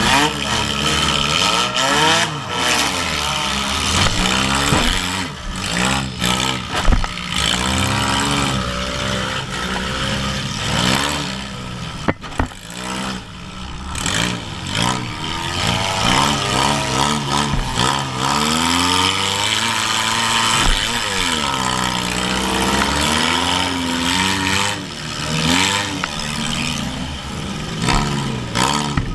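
Demolition derby compact car's engine revving up and down over and over, heard from inside the stripped cabin, with other derby cars' engines running around it. A couple of sharp bangs stand out, about seven seconds in and again about five seconds later.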